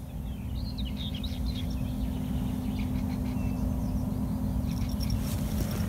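Small birds chirping over a steady low outdoor rumble. Near the end, the bite-alarm bell on a fishing rod starts jingling thinly.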